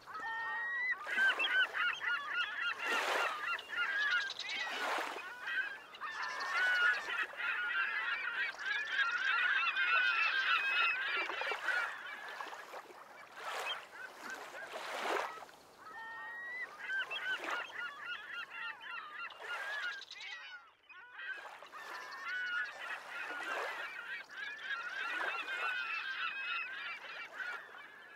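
A flock of gulls calling over and over, many overlapping squealing calls at once, pausing briefly about two thirds of the way through. Short whooshes of noise come every couple of seconds underneath.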